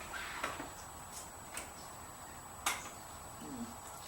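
A few scattered light clicks and taps of small objects being handled, the sharpest about two and a half seconds in.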